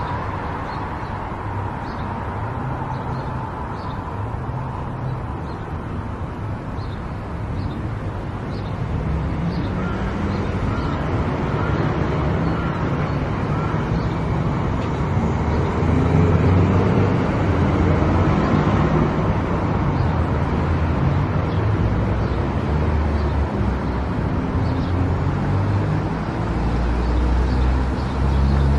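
Car driving on a road: steady engine and tyre noise, growing louder about eight seconds in as it picks up speed.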